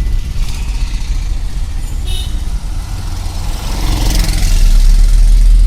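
Road noise inside a moving Tata Punch: a steady low rumble from the car's engine and tyres, swelling louder near the end.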